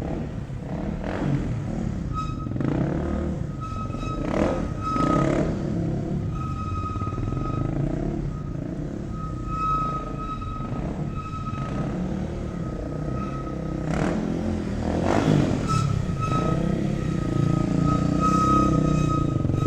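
Car engines running and revving, with a high steady tone that comes and goes.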